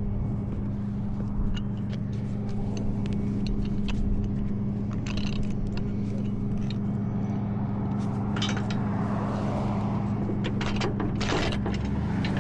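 Tow truck engine idling with a steady low hum, with scattered metallic clicks and scrapes of equipment being handled.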